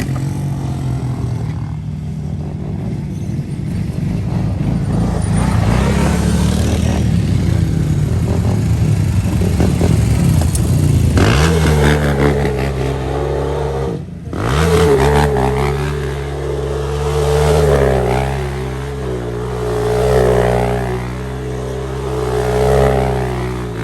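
Off-road bike engines running loud, with a brief drop about fourteen seconds in. In the second half the revs rise and fall repeatedly.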